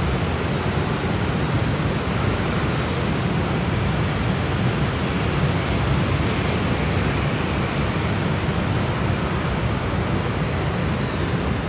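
Steady traffic noise from a dense stream of motorbikes and scooters passing on a city street, an even rushing drone with no single engine standing out.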